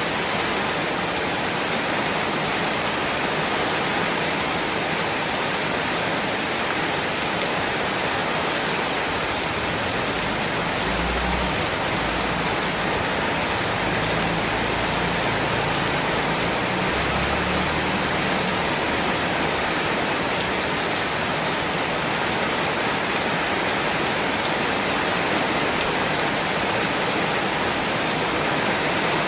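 Steady rain falling, an even hiss without pause. For a stretch in the middle a faint low rumble rises and fades beneath it.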